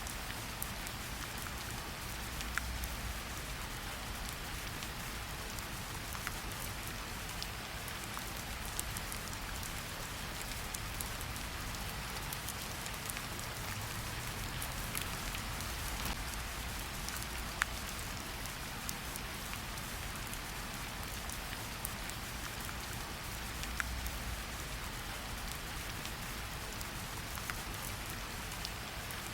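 Steady rain falling in a forest, an even hiss with scattered individual drops ticking close by.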